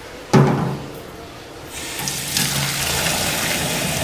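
A sharp knock about a third of a second in, then tap water starts running from a faucet about two seconds in and keeps running steadily, filling a water pitcher.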